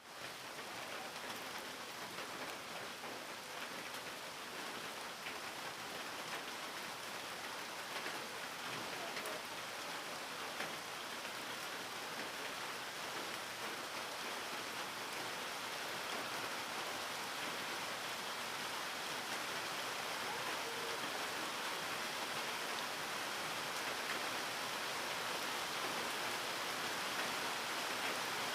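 Steady rain falling, an even hiss with faint scattered drop ticks, growing slowly louder.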